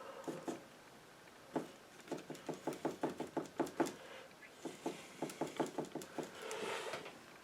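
A painting knife dabbing paint onto the canvas in quick repeated taps, about five a second, in two runs with a short pause between them.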